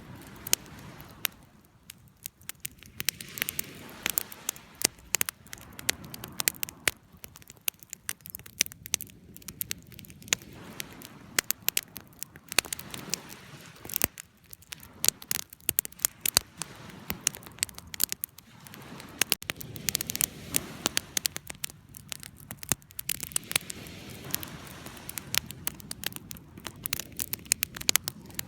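Campfire crackling: frequent, irregular sharp pops and snaps over a low, steady hiss of the burning fire.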